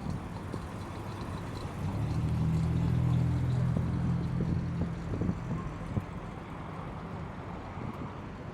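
Car engine running at low revs, a steady low hum that swells about two seconds in and fades back after about six seconds, as of a car moving slowly past.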